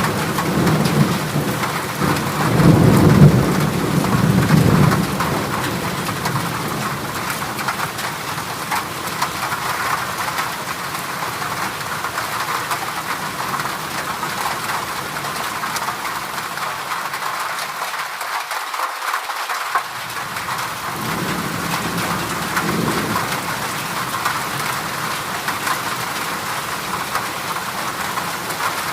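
Heavy rain drumming on a corrugated zinc roof, a steady dense hiss. A low rumble swells in the first few seconds and again about two-thirds of the way through.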